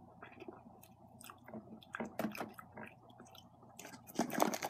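Close-miked chewing of candy: wet smacking and clicking mouth sounds, with a louder, denser run of crackling clicks near the end.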